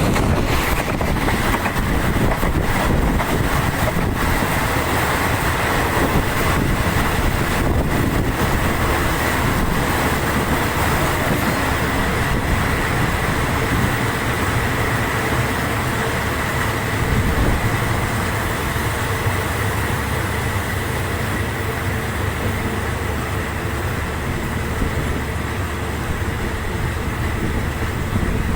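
Thai railway third-class passenger coach running along the track: steady rumble and rattle of the moving train heard from inside the car, with a few sharp clicks in the first ten seconds.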